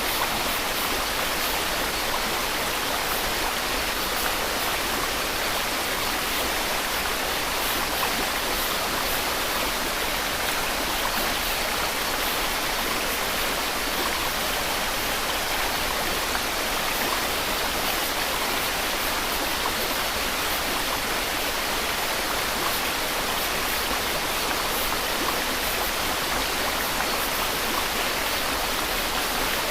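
Steady white noise: an even, unchanging hiss, strongest in the middle and upper range.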